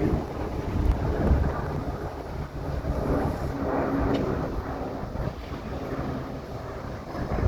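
Low, steady rumble of a diesel train running, with a few faint steady engine tones and wind buffeting the microphone.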